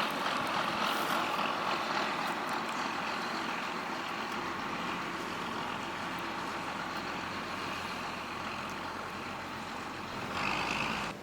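Heavy harvest machinery running steadily, a dense engine-and-machine noise that slowly fades, swells briefly near the end and then cuts off abruptly.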